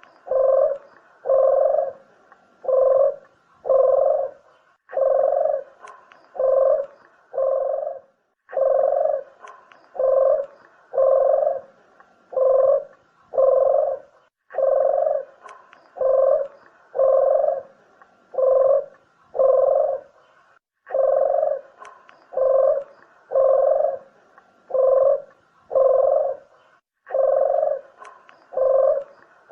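Puter dove cooing: low coos repeated in phrases of about five, with a short break between phrases, a call used to lure doves for trapping or shooting.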